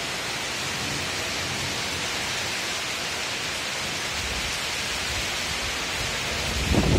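Heavy rain falling steadily, a dense even hiss. Near the end a low rumble swells up.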